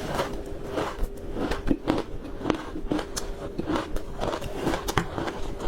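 Ice being bitten and chewed close to the microphone: a fast, irregular run of sharp crunches and cracks, a few of them louder, with a faint steady hum underneath.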